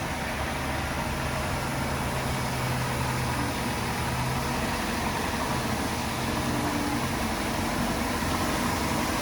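Diesel engine of heavy earthmoving machinery running steadily at a constant speed, with a low, even hum.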